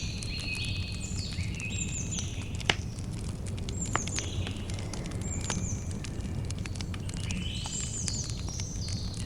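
Campfire crackling with scattered sharp pops, two of them louder about a quarter and halfway through, over a low steady rumble. Birds chirp throughout in short, repeated falling calls.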